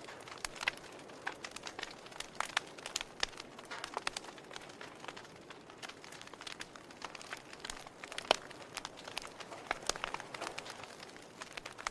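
Wood fire burning in a fireplace, crackling with irregular pops and snaps over a soft hiss; one pop about eight seconds in is the loudest.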